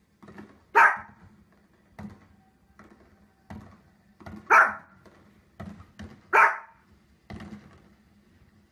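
Small fluffy dog barking at fireworks on the television: three loud, sharp barks, with fainter thumps and pops between them.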